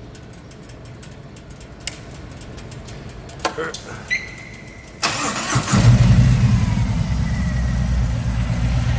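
Harley-Davidson Freewheeler trike's V-twin, fitted with Vance & Hines Twin Slash round slip-on mufflers, being started. A few clicks and a faint steady whine come first. About five seconds in the starter cranks, and the engine catches and settles into a loud, deep idle.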